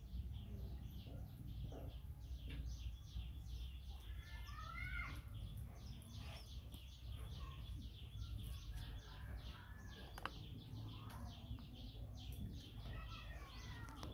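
Birds chirping repeatedly in short calls over a steady low hum.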